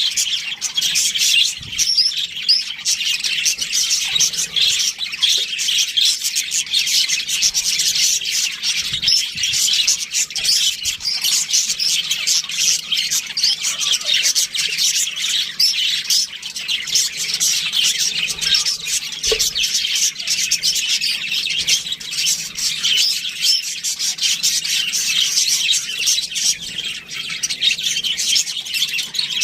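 A flock of budgerigars chirping and chattering continuously, many birds calling over one another in a dense, unbroken warble.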